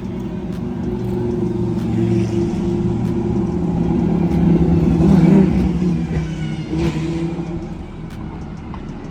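Lamborghini race car engines running at low revs, several engines at once; the sound swells louder toward the middle and eases off near the end.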